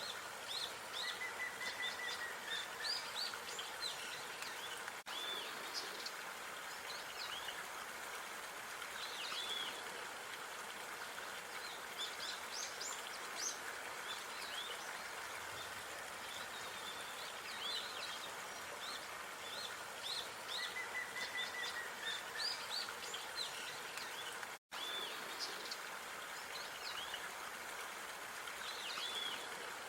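Small birds chirping and whistling in short bursts over a steady outdoor hiss of park ambience, with one brief gap in the sound about three-quarters of the way through.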